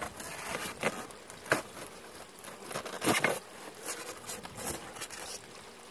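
Intermittent crinkling, tearing noises from adhesive tape being peeled off the plexiglass of a top bar hive's divider. There are several separate rustles, the loudest about three seconds in.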